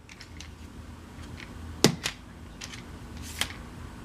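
Scattered sharp clicks and knocks from a tripod being handled and set up, the loudest pair about two seconds in.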